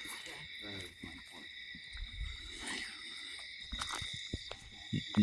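Crickets chirping steadily in a continuous high drone, with a few sharp clicks near the end.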